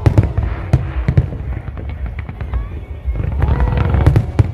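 Fireworks bursting overhead: a rapid series of sharp bangs and crackles over a continuous low rumble, with music playing alongside.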